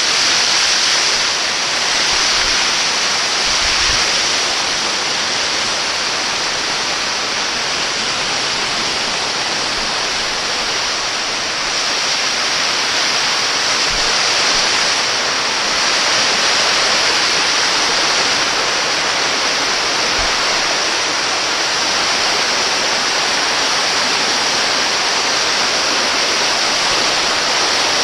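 Waterfall: a steady rush of falling water, with a few faint low thumps.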